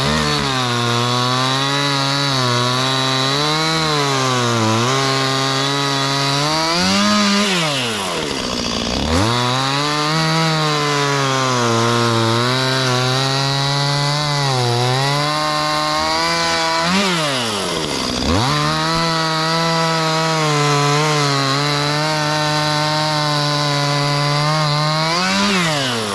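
Two-stroke chainsaw cutting through fallen trees, its engine pitch sagging and wavering under load in the cut. Three times it revs up high and then drops back sharply, as each cut finishes and the throttle is let off before the next cut.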